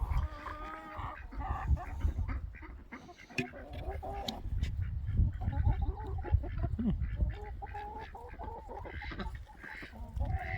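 Chickens calling, with a run of repeated pitched squawks and clucks over a low rumble and scattered knocks.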